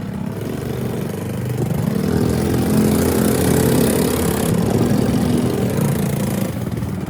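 Motor of a restored chisel mortiser running steadily; it grows louder about two seconds in and eases slightly near the end.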